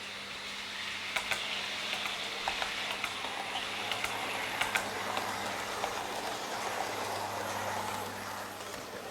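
00 gauge model train running along the layout track, a steady rolling hiss with irregular sharp clicks from the wheels, growing louder and then fading near the end as it passes by.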